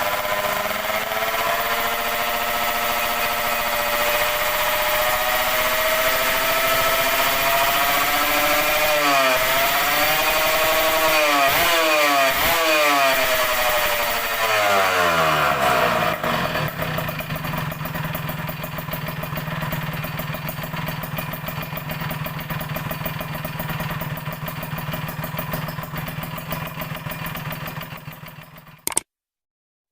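Kawasaki Ninja 150 R's two-stroke single-cylinder engine running at raised revs, blipped several times in quick succession about a third of the way in, then settling into a steady idle. The sound cuts off abruptly shortly before the end.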